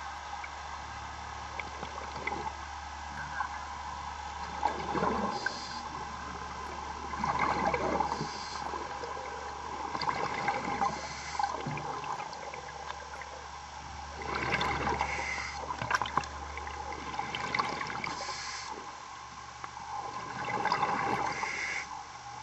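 A diver's breathing underwater: bubbling surges of exhaled air about every three seconds, over a steady hum.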